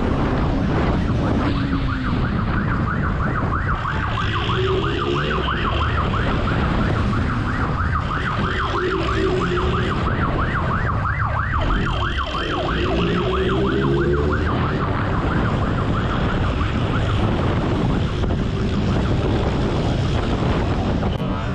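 Police motorcycle's siren in a fast, continuous warble, over the motorcycle's engine revving up and down as it rides.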